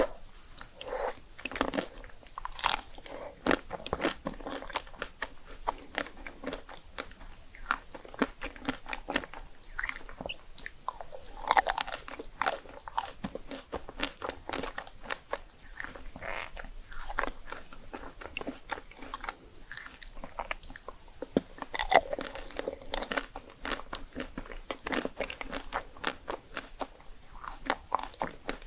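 Crunching bites and chewing of crisp puffed rice cakes, a steady run of crackling crunches with louder bites about twelve and twenty-two seconds in.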